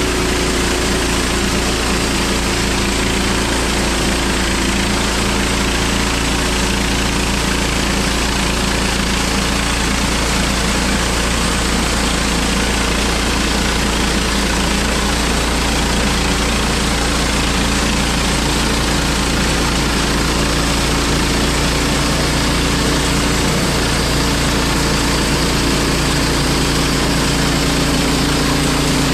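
An engine running steadily, its note shifting slightly about halfway through.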